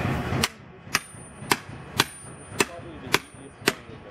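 Hammer blows on steel, about two strikes a second, each with a sharp metallic ring: a hammer working to split the freshly smelted iron bloom into smaller pieces. A few voices are heard just before the first strike.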